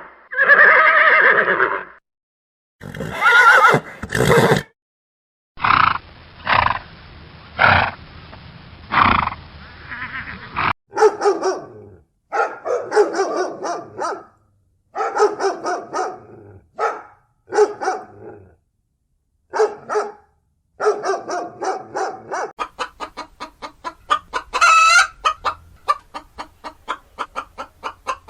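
A string of different animal calls in separate bouts: a horse whinnying at the start, several other animal calls in the middle, and chickens clucking in quick repeated pulses near the end.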